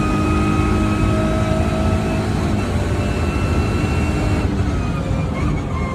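Lotus Emira GT4 race car's 3.5-litre supercharged V6 running hard at high revs, its pitch holding steady and then falling away near the end as the revs drop.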